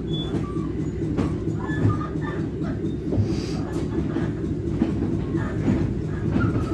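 Interior running noise of a Merseyrail Class 508 electric multiple unit heard inside the passenger saloon: a steady low rumble from the wheels and running gear, with scattered knocks from the track and occasional light rattles and squeaks from the carriage.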